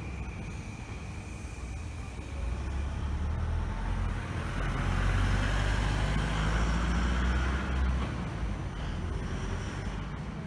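Low vehicle rumble over steady traffic noise, swelling from about two and a half seconds in and easing off near eight seconds as something passes.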